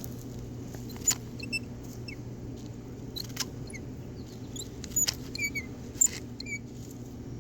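Scattered sharp clicks and crackles from a sunflower seed head being picked and pried apart by hand, with a few short, high squeaky chirps over a steady low hum.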